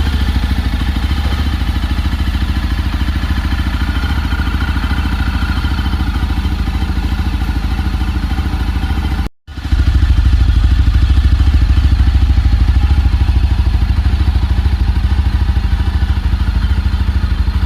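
Yezdi Roadster's single-cylinder engine idling steadily at the exhaust, a fast even pulsing beat with no revving. The sound cuts out for a split second about nine seconds in, then carries on a little louder.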